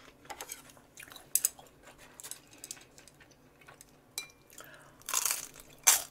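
Close-up chewing of a crispy deep-fried Vietnamese spring roll (chả giò), a run of small crackly crunches with a louder crunching bite about five seconds in and another just before the end.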